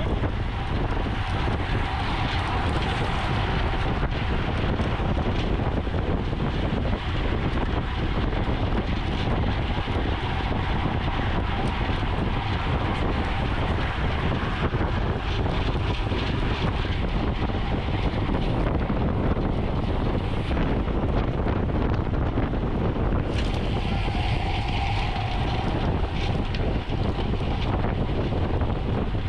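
Steady wind rushing over the microphone of a camera on a moving racing bicycle, a constant loud noise with no breaks.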